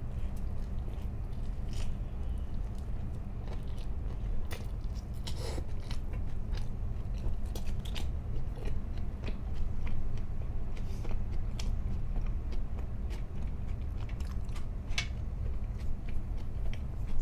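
Close-miked eating: chewing and biting into food, with scattered soft crunches and wet mouth clicks over a steady low hum.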